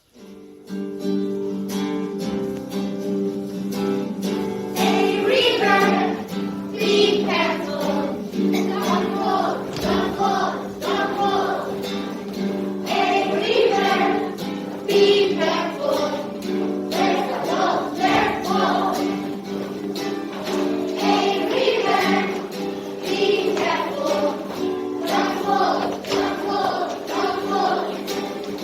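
Children singing together as a choir over an instrumental accompaniment. The accompaniment starts first, and the voices come in about five seconds in.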